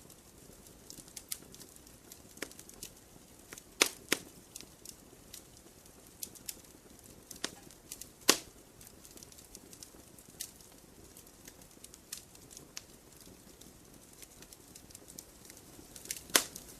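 Wood campfire crackling: irregular sharp pops and snaps over a low, steady hiss. The loudest pops come about four seconds in, about halfway through, and near the end.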